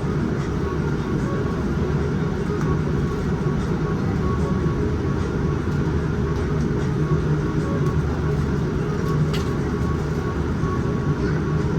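Steady cabin rumble inside a Boeing 787-9 taxiing after landing, its engines at idle, with a faint steady tone above the rumble. A brief click about nine seconds in.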